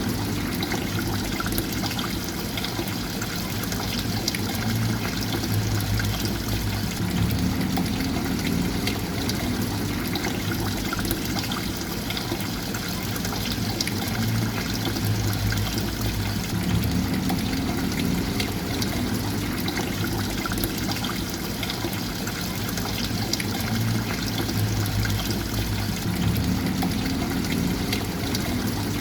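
Steady trickling, splashing water with a low hum underneath that swells and dips about every ten seconds.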